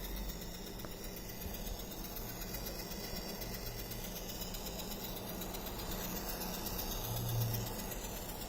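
Steady low electrical hum from an HP Pavilion 15 laptop: the odd noise that keeps going until the laptop sleeps or is shut down. It swells briefly about seven seconds in.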